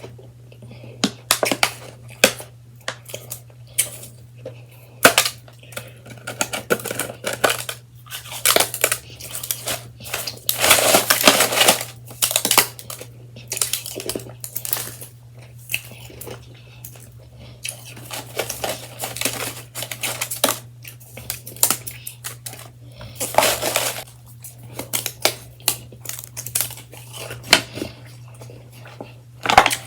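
Close-miked soft crunching and chewing of freshly shaved ice in irregular bursts, densest about ten to thirteen seconds in and again near twenty-three seconds.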